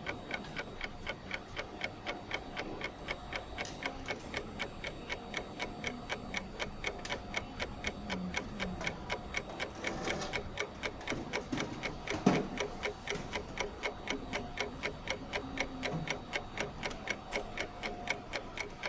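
Steady, even mechanical ticking, about three to four ticks a second, with one louder click about twelve seconds in.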